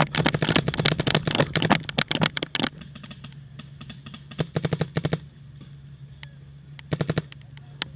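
Paintball markers firing rapid strings of shots: a long, fast volley for the first few seconds, then a shorter burst about halfway through and another brief one near the end.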